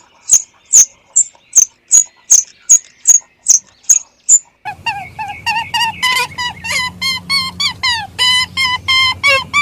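Short, high-pitched bird chirps repeated about two and a half times a second. About halfway through they stop and a flock of fowl starts calling rapidly, with many short honking calls in quick succession.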